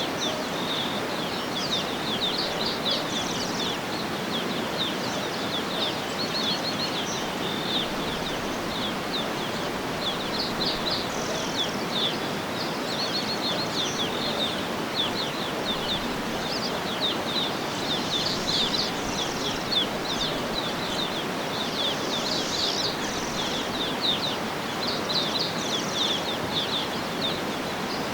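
Outdoor nature ambience: many small birds chirping and trilling in quick, repeated notes over a steady rushing hiss.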